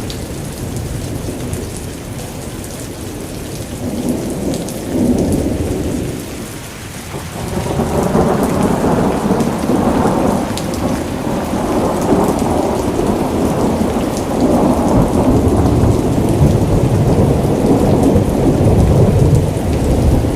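Heavy rain pouring with thunder rumbling through it. The rumble swells about four seconds in, eases briefly around seven seconds, then rolls on louder and continuously to the end.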